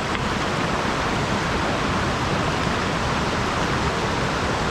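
Steady rushing of mountain-stream water spilling over and below a sabo (erosion-control) dam, a loud, even noise.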